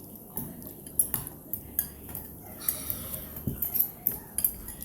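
Eating utensils clinking and scraping against a bowl in irregular sharp clicks, the sharpest about a second in.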